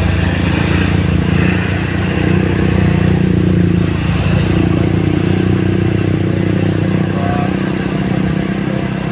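Heavy diesel truck engine running under load as the truck climbs a steep hill, a steady low engine note that shifts in pitch about halfway through.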